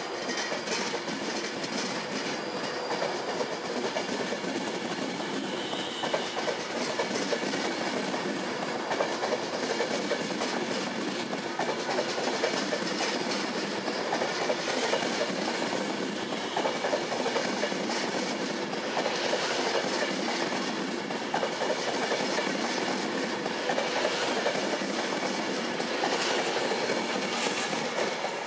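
Virgin Trains Class 390 Pendolino electric train moving along the platform, its coaches rolling past with a steady running noise of wheels on rail.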